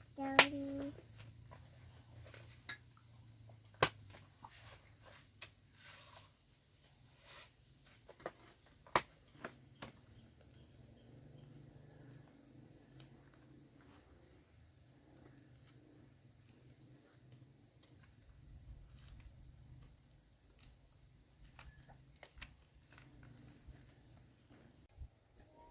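A steady, high-pitched chorus of crickets or similar insects trilling, broken by a few scattered sharp clicks and knocks, the loudest near the start.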